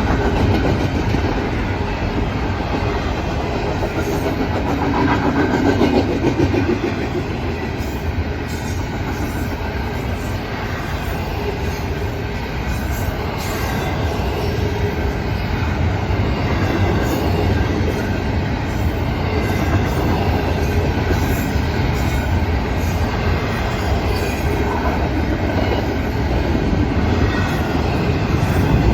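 Norfolk Southern intermodal freight train rolling past, a loud, steady rumble of wheels on rail with repeated clicks.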